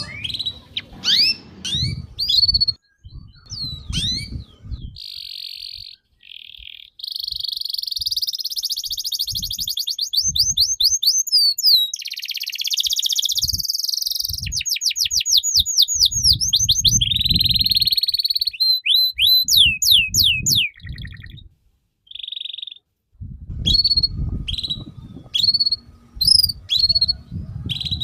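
A songbird singing nonstop: a varied, high-pitched song of quick rising and falling whistles, runs of rapid repeated notes and buzzy chatter, with a few short pauses. Low thumps and rumbles sound underneath at times.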